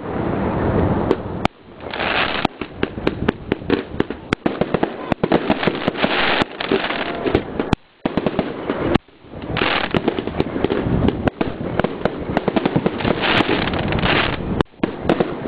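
Fireworks display: rapid, overlapping bangs of bursting aerial shells with continuous crackling. It drops away briefly a few times, longest just past halfway.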